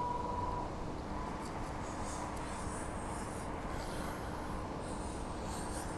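Cabin noise of a Transperth A-series electric multiple-unit train running along the line: a steady rumble with a low hum, and a whine that fades out within the first second. A light, high scratching comes and goes through the middle.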